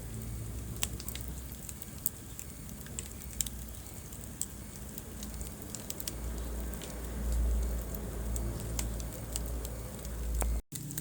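Wood fire burning in a fireplace: scattered sharp crackles and pops over a low, steady rumble of the flames. A brief total dropout in the sound comes near the end.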